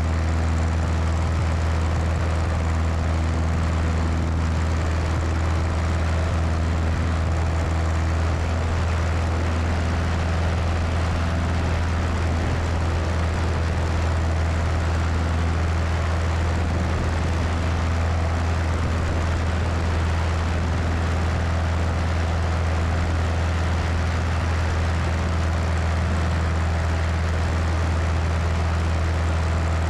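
Cessna 172's piston engine and propeller running steadily in flight, a deep, even drone, with wind rushing over the wing-mounted microphone.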